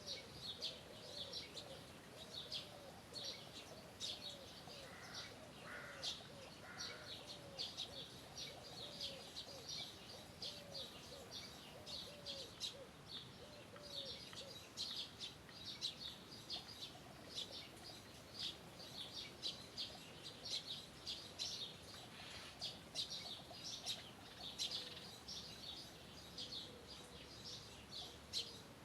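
Several songbirds chirping continuously in quick, high notes. Through the first half a lower call repeats about twice a second, then stops.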